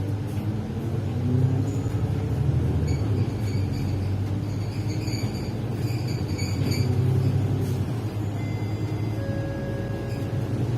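Steady low engine and road rumble heard from inside a moving city bus.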